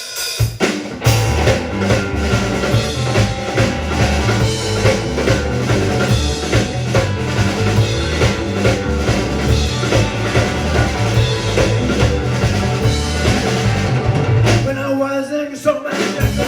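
Live rock band playing the instrumental opening of a new song, with a drum kit keeping a steady beat under a strong bass line. About fifteen seconds in, the drums and bass drop out for a moment before the full band comes back in.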